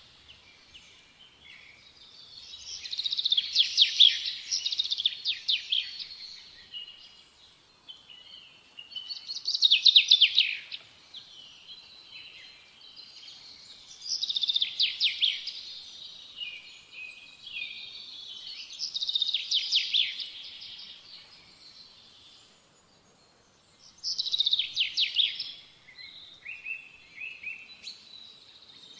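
A songbird singing: a phrase of rapid, high chirping notes lasting a second or two, repeated about every five seconds.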